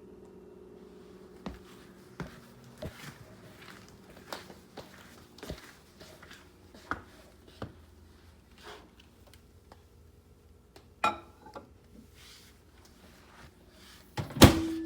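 Kitchen dishware and utensils being handled: a string of light clicks and knocks against a bowl, with a louder click about two-thirds of the way in and a loud knock near the end.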